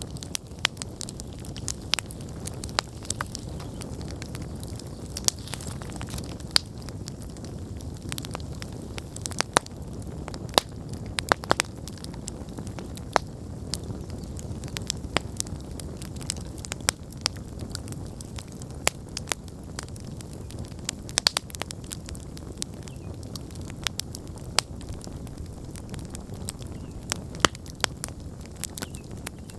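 Wood campfire burning: a steady low rush of flames with sharp, irregular crackles and pops from the burning wood, several a second.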